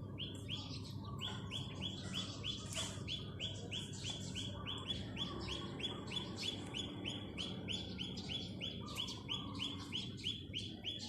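Birds chirping: one repeats a short, identical chirp about four times a second without a break, while others call more irregularly over it.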